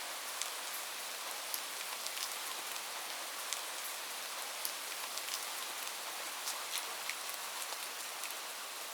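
Light rain falling steadily, a soft even hiss with many separate drops ticking sharply on a surface.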